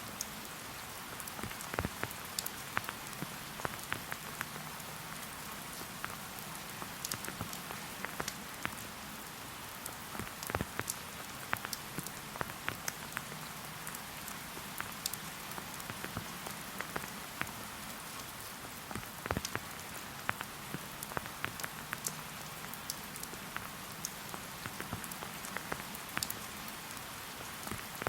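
Steady rain falling in a forest, an even hiss with many close individual drops pattering and ticking on leaves and surfaces.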